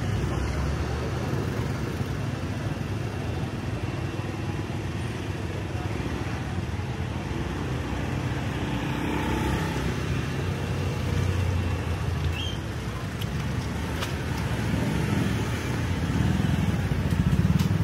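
Street traffic: cars and motorbikes running and passing close by over a steady rumble, swelling as vehicles go past and loudest near the end.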